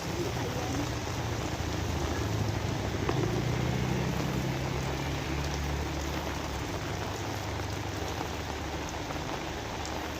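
Steady rain falling on surfaces, with a low rumble underneath that swells about three seconds in and then slowly fades.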